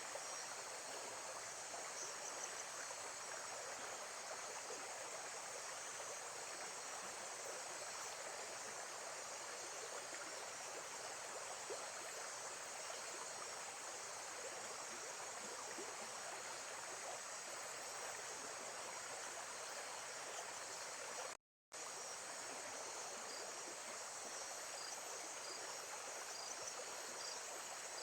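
Recorded lake-side nature ambience: a steady wash of running water with a high, continuous chirring of crickets or other insects. About three quarters of the way through, the sound cuts out completely for a split second.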